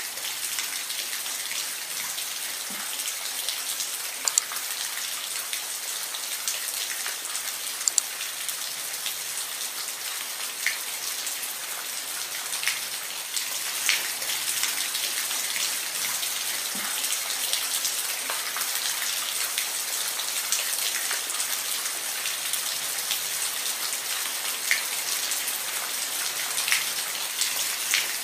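Steady rain, an even hiss with individual drops ticking sharply on a surface now and then.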